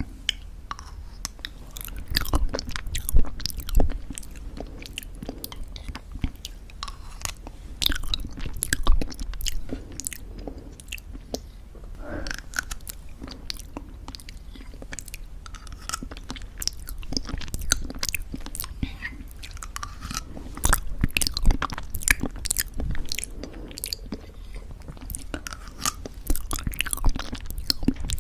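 Close-miked chewing of crunchy homemade granola in thick yogurt: a steady run of crackly crunches and wet mouth sounds, with louder bursts of crunching a few times.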